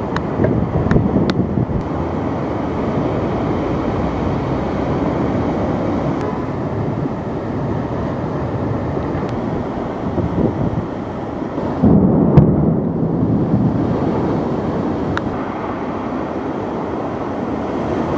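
Thunderstorm wind buffeting the microphone as a steady low rumble, with a louder surge about twelve seconds in.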